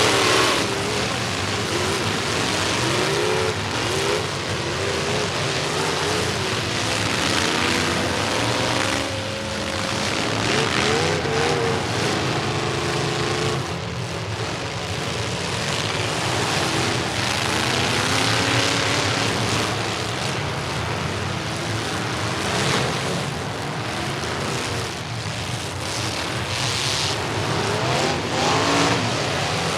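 Demolition derby trucks' engines running hard and revving, several at once, their pitch rising and falling again and again over a steady din.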